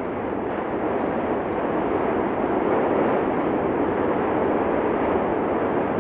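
Cumbre Vieja volcano erupting: a continuous rushing noise with no separate blasts, growing a little louder about two seconds in.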